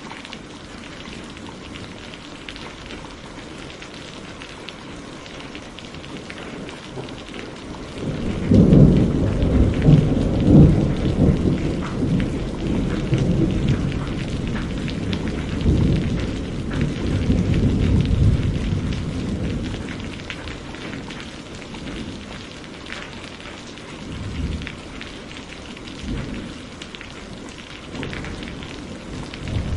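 Steady rain falling, with a long roll of thunder that breaks in suddenly about eight seconds in. The thunder rumbles loudly for several seconds, then slowly dies away, and a few smaller rumbles follow near the end.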